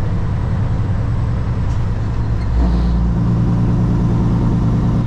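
Semi truck's diesel engine running under way, a steady low drone heard from the cab. About two and a half seconds in, the engine note changes and its low tones grow stronger.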